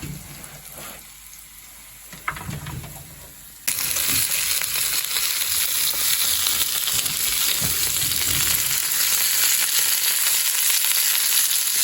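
Pelmeni frying in a pan on a camping gas stove. A quieter sizzle with a few soft knocks turns suddenly, about four seconds in, into a loud, steady hissing sizzle.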